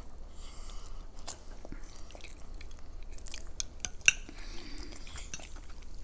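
Chewing a mouthful of broccoli, with small wet mouth clicks, and a fork clicking on a plate, most sharply about four seconds in.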